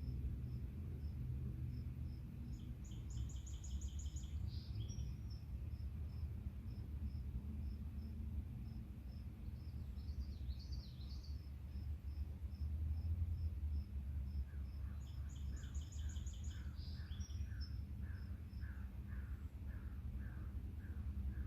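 Evening outdoor ambience: a cricket chirping steadily, about three short chirps a second. A songbird sings the same short trilled phrase twice, another bird warbles in between, and a string of repeated falling call notes starts a little past the middle, over a steady low rumble.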